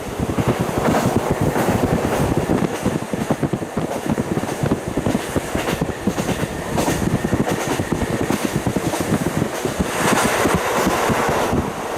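KiHa 40 diesel railcar running along the track, heard through a fully open window: a steady rush of wheel and rail noise with a rapid rattle of small knocks, swelling louder for a moment near the end.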